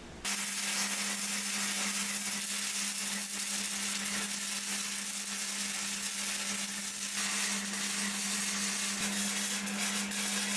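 A power tool running steadily, with a constant hum under a broad high hiss. It starts abruptly just after the beginning.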